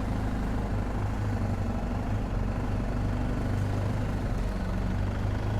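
BMW R1250 GS Adventure's boxer-twin engine running steadily at low revs, with an even rush of noise over it.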